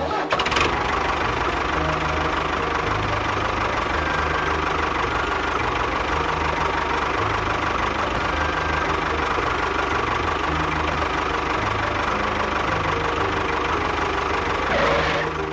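A small motor running steadily with a dense, rattly noise that starts and stops abruptly, over background music.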